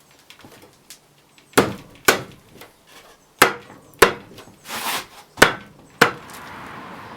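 A series of six sharp knocks, hard strikes at uneven intervals, with a brief hiss between the fourth and fifth. A steady hiss starts just after the last knock.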